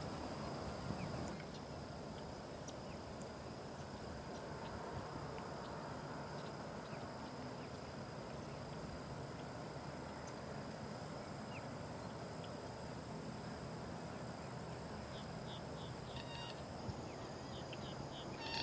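Faint wetland ambience: a steady high-pitched drone and a fainter second high tone over a low, even background hiss, with scattered short bird chirps that come in a quick run near the end.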